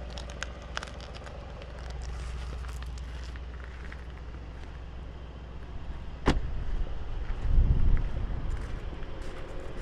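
Mercedes-AMG C63's 4-litre twin-turbo V8 idling through its exhaust, a steady low rumble. About six seconds in there is a sharp click, then a louder low rumbling for about a second.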